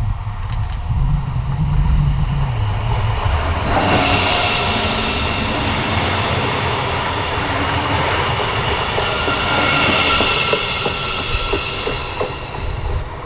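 A train passes on a mainline with a heavy rumble; from about four seconds in, several high steady whining tones join it, and wheel clicks sound over the rails. It eases off near the end.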